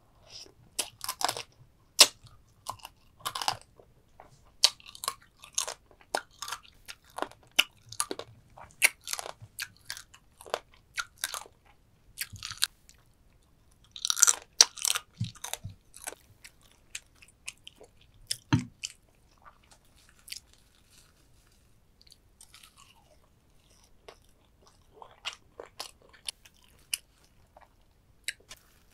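Close-up crunching and chewing of soy-sauce-marinated stone crab (ganjang gejang), the shell cracking in quick sharp crackles. The crackles are densest in the first half and come more sparsely after about sixteen seconds, with a single dull knock near the middle.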